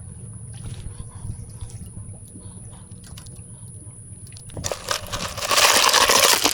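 A low steady hum with faint scattered clicks, then, about four and a half seconds in, a sudden loud rush of splashing water.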